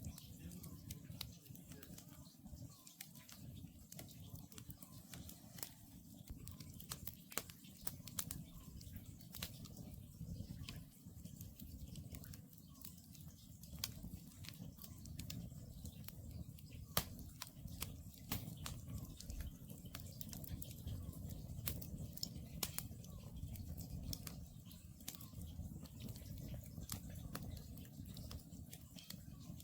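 Wood campfire burning, with a low steady rumble and frequent sharp crackles and pops from the burning logs.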